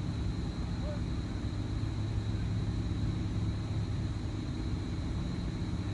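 Steady low rumble with a thin, constant high-pitched whine above it, unchanging throughout.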